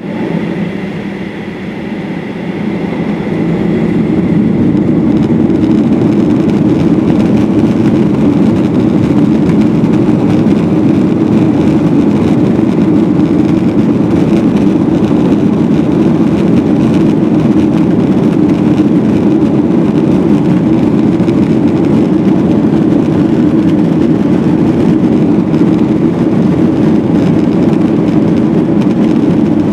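Boeing 737-700's CFM56-7B jet engines at takeoff power: a loud, steady rushing rumble that swells over the first four seconds and then holds. A faint high whine in the first few seconds fades as the rumble builds.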